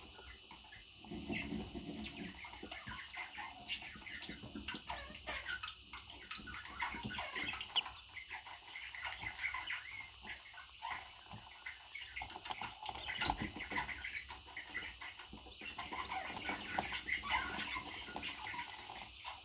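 Parrot chattering: a continuous run of short chirps, clucks and squawks.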